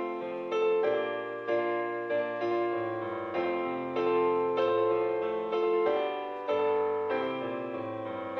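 Background music: a slow hymn played on piano or electric piano, sustained chords under a melody with a new note struck about every half second.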